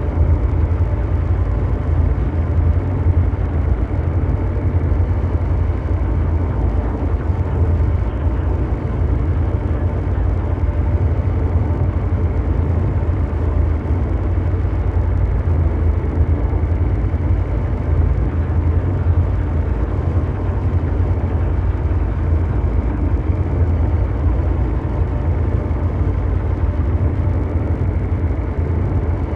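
Steady mechanical drone noise: a dense, rumbling brown-noise bed heaviest in the low end, with faint steady hum tones above it and no change.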